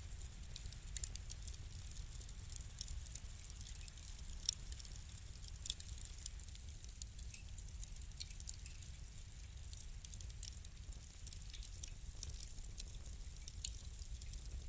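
Wood fire crackling: irregular sharp pops and snaps over a steady low rumble, with a couple of louder pops about four and a half and six seconds in.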